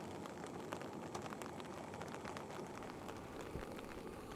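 Steady light rain falling on a tarp overhead, with many small drop taps, and a single soft knock about three and a half seconds in.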